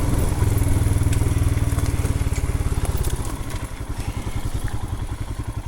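2020 Royal Enfield Himalayan's 411 cc single-cylinder engine running under light throttle on the trail. It eases off to a quieter, slower beat about three seconds in.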